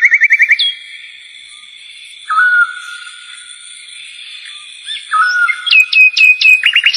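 Birds singing: a rapid trill opens, then clear whistled notes, some held and some sliding down. A quick run of short falling whistles and another trill come near the end.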